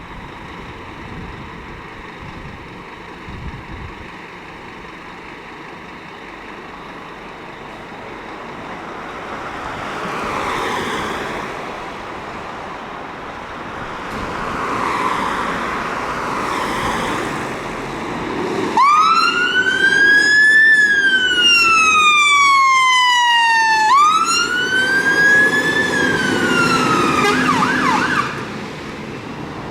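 Fire appliance's electronic siren sounding on a turnout, the Scania water rescue ladder's. Vehicle noise swells twice before the siren starts about two-thirds of the way in with two slow wails, each rising then falling in pitch, then a brief fast yelp before it cuts off.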